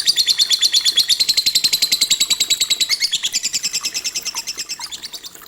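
Lovebird twittering in a fast, even run of high chirps, about a dozen a second, fading away near the end.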